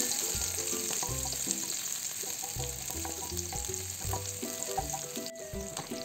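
Sliced shallots sizzling and crackling steadily in hot oil in a stainless steel wok, stirred with a wooden spatula. Soft background music with a repeating bass line plays underneath.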